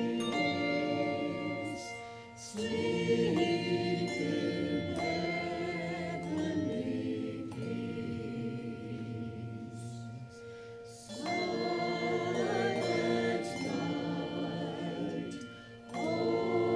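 Church choir singing a Christmas piece in sustained phrases, with short breaks about two seconds in, around ten seconds in and near the end.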